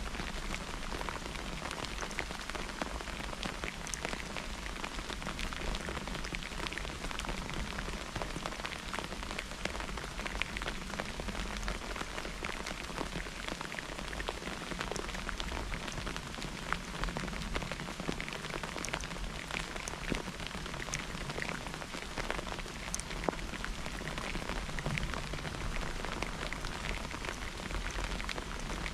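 Steady rainfall with many individual drops pattering on a hard surface close to the microphone.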